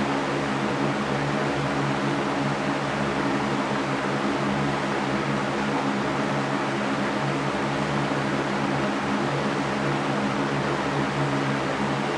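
Electric fan running steadily: an even rush of air with a low motor hum.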